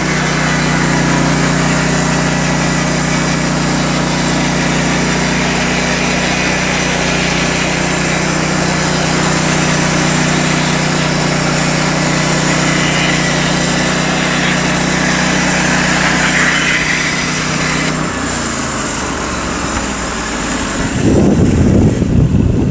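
Portable bandsaw mill's 16 hp gasoline engine running steadily while the band blade cuts through a log. The engine's steady tone changes about eighteen seconds in. Near the end, wind buffets the microphone with a louder rush.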